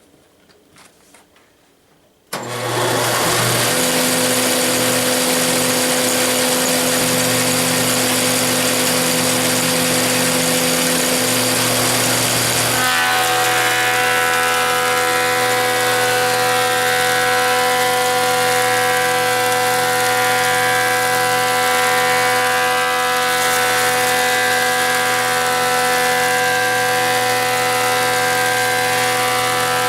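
Sears-built Belsaw planer starts abruptly about two seconds in and runs loud and steady with a hum of several tones. About halfway through the sound changes, with more higher-pitched ringing tones joining in.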